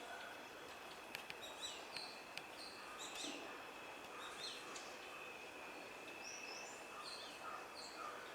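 Several birds calling, short high chirps and repeated whistled notes, over a steady thin high tone. A few sharp clicks come in the first few seconds.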